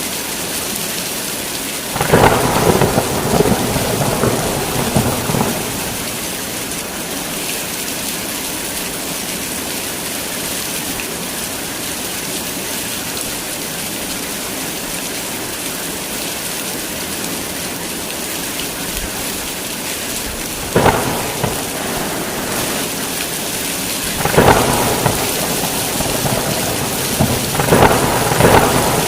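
Heavy rain falling steadily, with thunder cracking and rumbling over it several times. A long peal comes about two seconds in and lasts a few seconds, a sharp crack comes about two-thirds of the way through, and two more peals come near the end.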